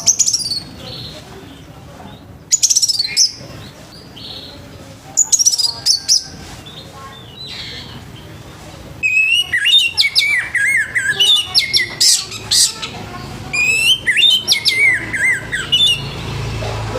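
Orange-headed thrush singing its loud full song in quick, varied whistled and warbled phrases: short bursts a few seconds apart at first, then almost continuous song through the second half.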